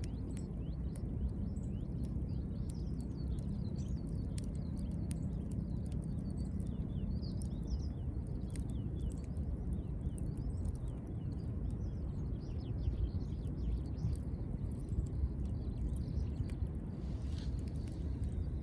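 Wood fire burning in a fire pit: a steady low rumble with scattered sharp crackles, and many short high-pitched chirps throughout.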